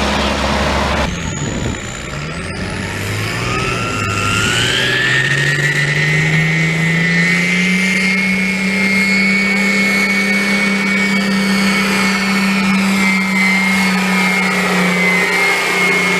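Pulling truck's engine run up to full revs and held there, a high whine riding over the engine note; the pitch climbs for the first several seconds, then holds steady under full load.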